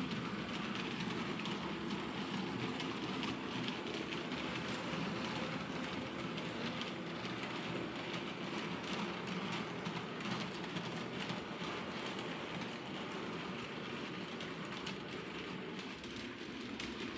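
Several model trains running around a model railway layout: a steady whirr of small electric motors and wheels on the track, with many light clicks as wheels run over rail joints and points.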